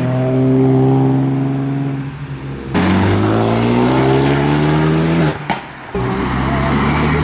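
Car engine accelerating hard, its pitch climbing in two long rising pulls with a break between them, then settling to a steadier note near the end.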